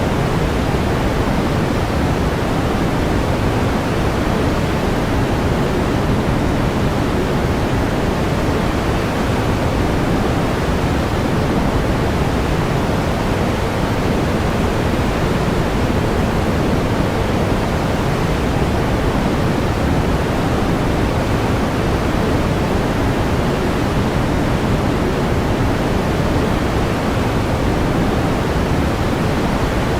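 Steady pink noise: an even, unchanging hiss, heavier in the low end and softer toward the top.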